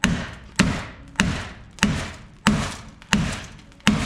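Hammer blows on the bent sheet-metal door of a Jeep Comanche, seven strikes at a steady pace of about one and a half a second, each with a short metallic ring, as the mangled door is beaten back into shape.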